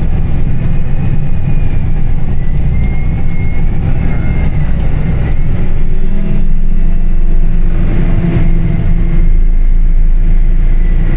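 Farm tractor engine running steadily as it drives along the road, a loud low drone whose note shifts about six seconds in.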